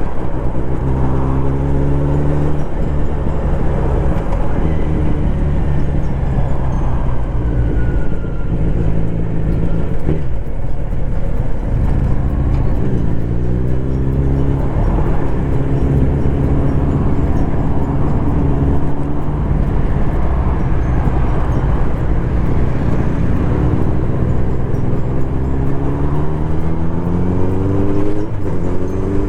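Kawasaki Z900RS's inline-four engine through its stock full exhaust system while riding, pulling up through the revs and dropping back at gear changes. This happens three times, near the start, in the middle and near the end.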